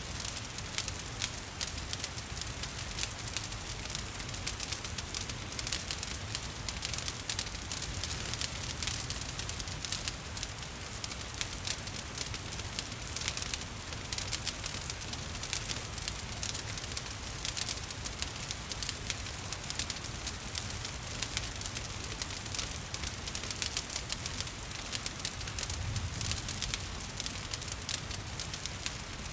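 Wood fire crackling and popping with frequent sharp snaps, over a steady hiss of falling rain.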